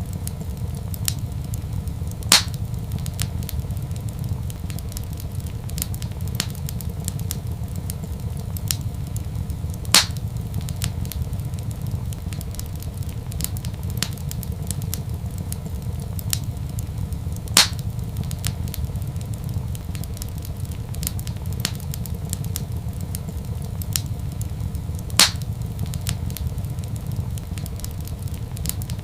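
Wood fire crackling in a fireplace: many small crackles over a steady low rumble, with four sharp, louder pops spaced about seven and a half seconds apart.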